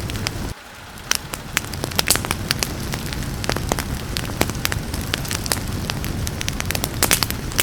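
Wood fire crackling, with frequent irregular sharp pops over a steady hiss of rain. About half a second in, the sound drops abruptly and then swells back over the next second or so.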